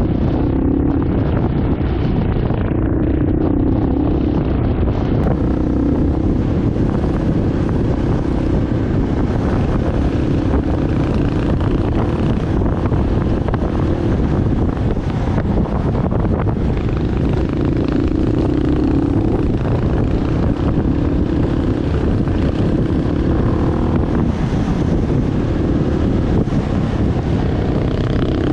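Enduro motorcycle engine running steadily under way, its note swelling and easing a little every few seconds, with wind rushing over the microphone.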